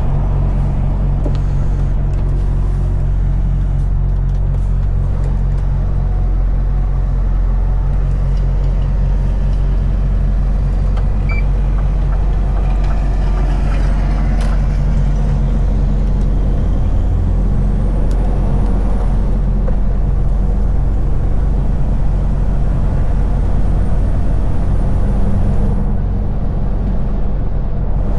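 Scania V8 diesel truck engine running steadily with a deep, even drone while the lorry is under way.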